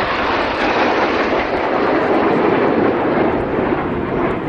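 Jet noise from the Red Arrows' BAE Systems Hawk T1 trainers flying overhead: a loud, steady rushing roar with no clear pitch.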